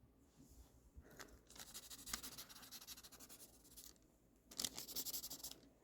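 Faint scratching of a pencil shading on paper, in two runs of quick back-and-forth strokes with a short pause between them.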